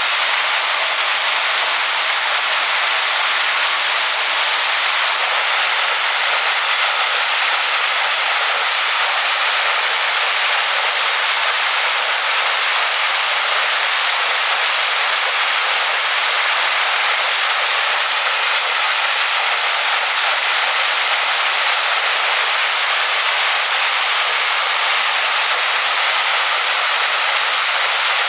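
Waterfall pouring onto rocks: a steady, even hiss of falling water, bright and high with little low rumble.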